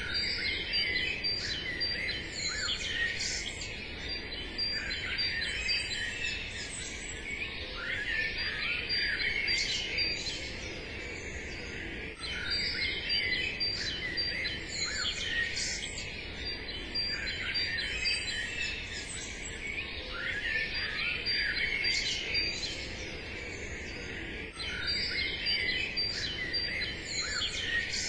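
Many songbirds chirping and singing at once, a dense chorus of short calls and trills over a faint steady background hiss.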